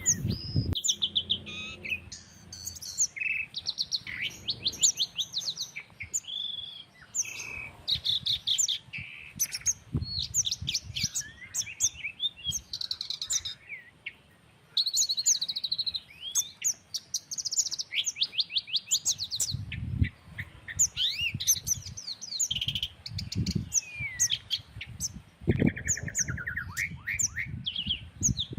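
Several birds singing and calling over one another in a countryside dawn-style chorus: dense runs of quick, high chirps and trills. Low rumbles of breeze on the microphone come and go in the second half.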